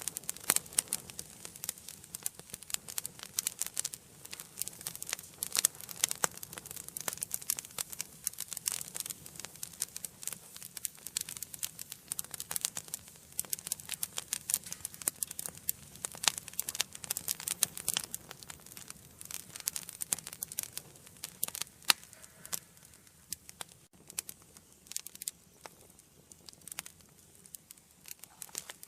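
Wood fire burning in an indoor fireplace, crackling and popping with many sharp snaps over a soft hiss; the snapping thins out a little in the later part.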